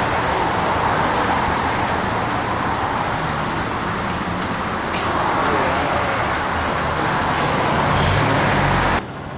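Steady road traffic noise: cars running past on a city street, with a low engine hum that swells near the end.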